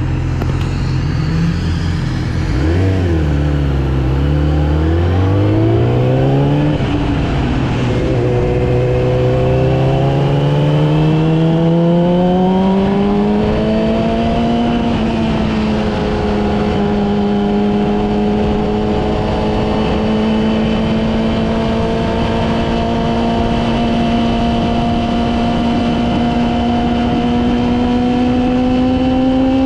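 Yamaha R6's inline-four engine heard from the bike: a short dip and rise in revs a few seconds in, then a steady climb in pitch as the bike accelerates, levelling off into an even cruise about halfway through, with a slight rise near the end, over road and wind noise.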